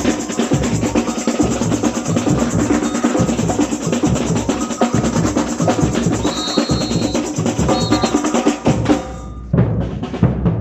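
Samba bateria drumming at full tilt: booming surdo bass drums under fast snare and small-drum patterns, with short high whistle blasts a little past halfway. About nine seconds in the dense high rattle cuts out, leaving sparser, lower drum hits.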